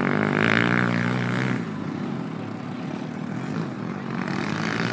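Motocross dirt bike engines running at high revs as bikes pass. The sound is loudest in the first second and a half and swells again near the end.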